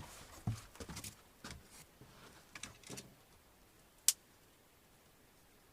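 A run of soft, irregular crunches and rustles in snow over the first three seconds, then a single sharp click about four seconds in.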